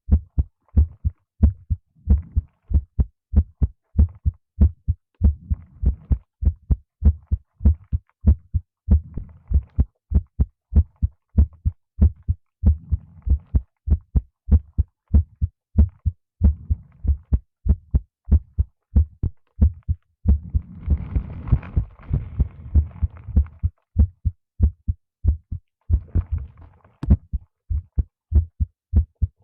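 Human heartbeat picked up by a microphone held against the chest: steady low thumps, about two a second. About two-thirds of the way through, and briefly again near the end, a rustling rises over the beats.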